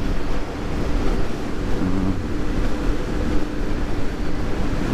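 Motor scooter riding along at steady speed: heavy wind rush on the microphone over the engine's steady drone.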